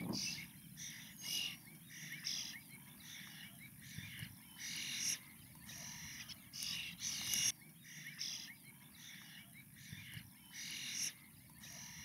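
Birds calling repeatedly: short, harsh calls one after another, several a second, over a low steady background rumble.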